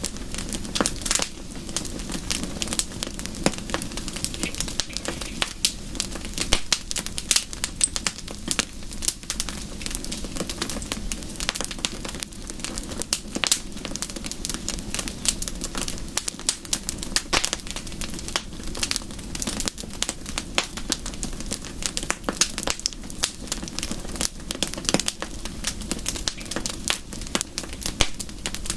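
Wood fire crackling, with dense irregular pops and snaps over a steady low rush.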